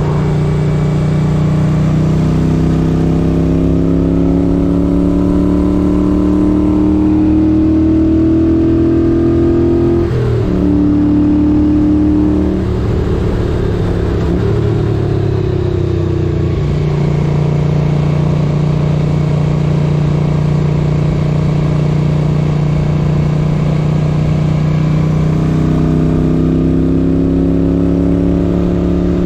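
1978 Moto Guzzi 850 Le Mans's air-cooled V-twin under way, the revs climbing slowly, then a quick gear change about ten seconds in. After a short lull it holds steady revs for a long stretch and begins climbing again near the end.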